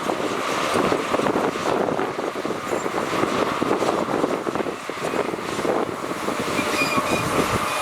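Diesel earthmoving machinery running steadily under load, a continuous rough engine and mechanical din.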